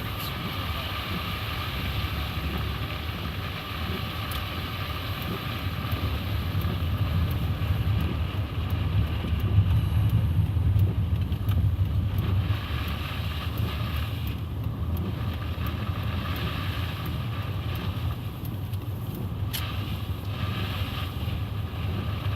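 Steady road and engine noise inside the cab of a truck driving on snow-covered road: a low rumble with tyre hiss that swells a little louder about halfway through.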